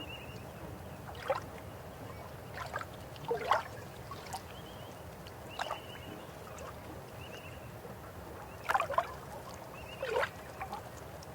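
River water running steadily, with about six sudden louder gurgles or splashes scattered through it, two of the loudest near the middle and near the end. Faint short chirps repeat now and then above the water.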